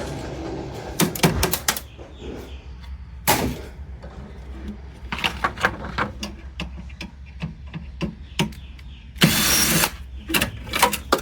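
Scattered clicks, taps and knocks of hand tools and screws against the sheet-metal parts of a hot water heater being taken apart, with a louder rattling scrape about nine seconds in.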